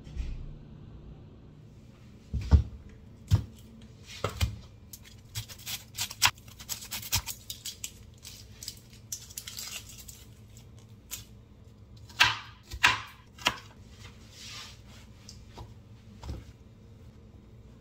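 The papery skin of a red onion being peeled and torn off by hand, crackling and rustling in irregular bursts, with a few sharper knocks on the cutting board.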